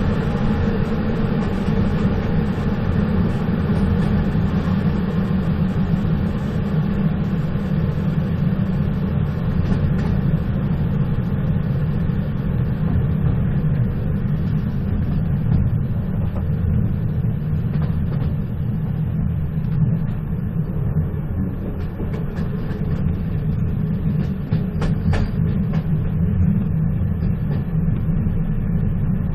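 Moving train running steadily: a dense, even low rumble with a few faint clicks in the second half.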